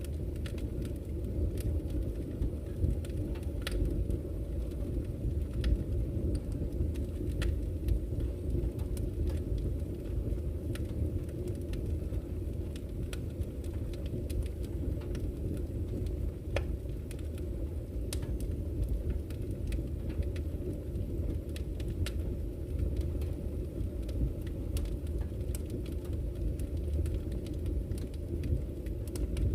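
Campfire crackling, with sharp pops and snaps at irregular moments, over the steady low rush of a flowing river.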